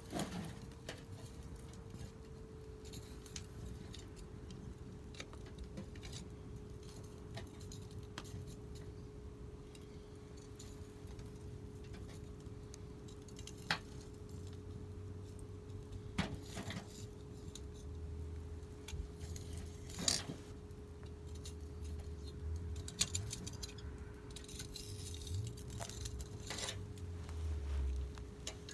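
Wood campfire crackling, with irregular sharp pops and snaps scattered through, over a faint steady hum. Low rumbling comes and goes in the second half.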